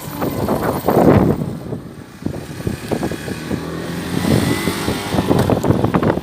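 A vehicle on the move, its engine running under uneven gusts of wind buffeting the microphone, loudest about a second in.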